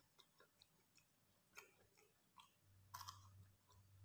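Very faint closed-mouth chewing of fried tofu: a few soft, scattered clicks, with a low hum coming in past halfway.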